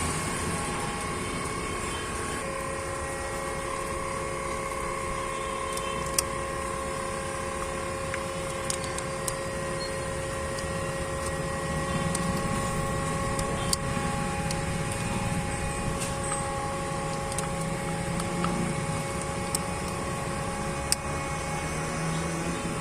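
Hyundai Xcent's common-rail diesel engine idling steadily after cranking, its misfire cured by a replacement injector, with a few faint clicks.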